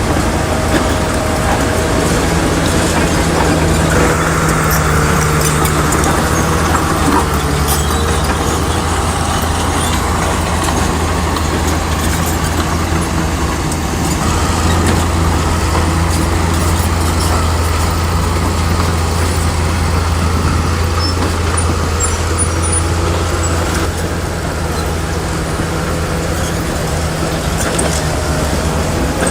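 Crawler bulldozer's diesel engine running steadily with a constant low drone.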